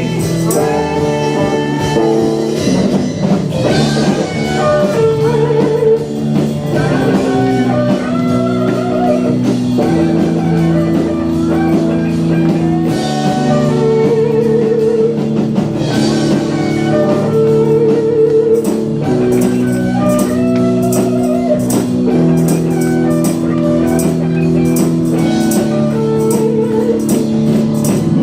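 Live worship band playing an instrumental passage: a guitar lead line with wavering, vibrato notes over sustained chords, bass and a drum kit keeping a steady cymbal beat.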